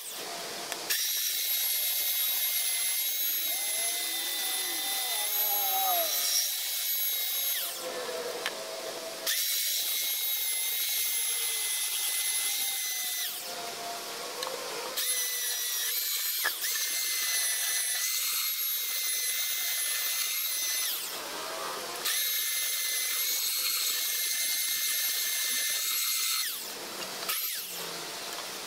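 Handheld electric power tool running with a steady high whine, in four long stretches broken by brief stops.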